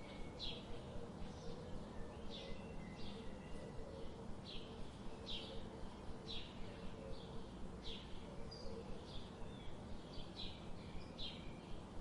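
Birds chirping: short, high chirps repeated about once or twice a second over a steady background hiss of natural ambience.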